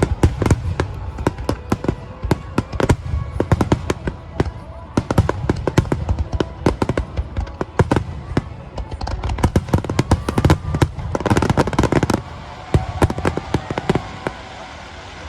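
Aerial fireworks bursting in a rapid barrage of sharp pops and crackles, thinning out about three-quarters of the way through to a few last pops.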